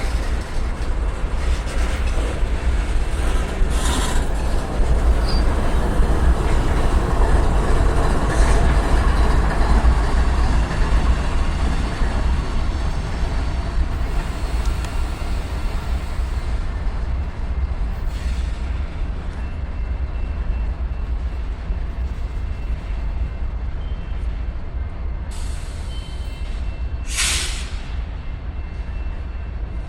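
BNSF freight train rolling past: a steady rumble of the cars on the rails, louder a few seconds in and then slowly fading. A short sharp hiss cuts in near the end.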